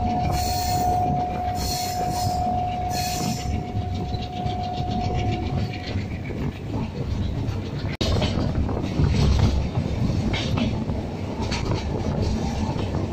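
A passenger train's running noise heard from a window seat of the moving train, a dense steady rush. A single steady high tone holds for about the first six seconds, and the sound cuts out for an instant about eight seconds in.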